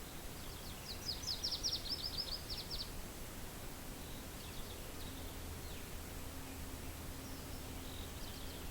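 A small songbird singing a quick, high trill of rapid repeated notes for about two seconds, with a few fainter, shorter phrases later, over a steady low wind hiss.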